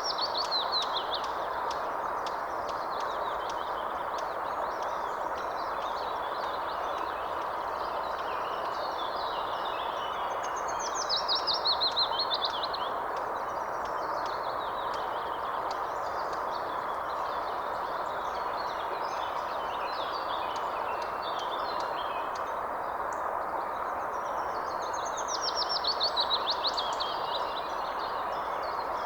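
A songbird singing a short trilled phrase that falls in pitch, three times about 14 seconds apart, over a steady hiss of background noise.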